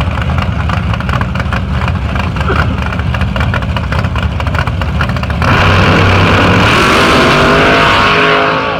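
A Ford Probe drag car's engine runs roughly and choppily. About five and a half seconds in it suddenly goes to full throttle as the car launches, and its pitch falls away as the car runs down the track.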